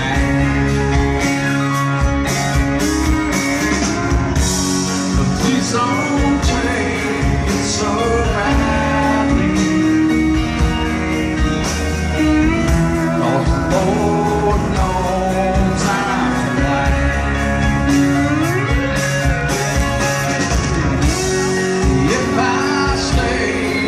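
Live rock band playing a slow instrumental passage, with guitar lines that bend and glide in pitch over bass and drums.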